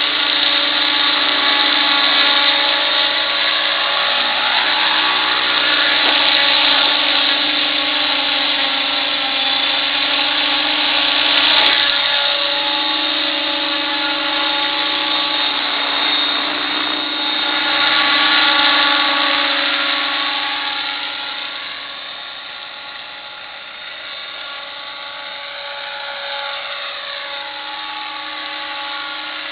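Electric RC helicopter with full-metal Esmart mechanics in flight: a steady electric motor and gear whine over rotor noise. The sound dips a little about two-thirds through, with its pitch sweeping up and down as the helicopter moves.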